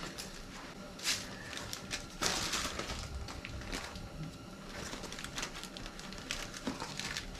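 Handling noises at a workbench: scattered small clicks and knocks of tools and parts, with a sharper knock about a second in and a short rustle a little after two seconds.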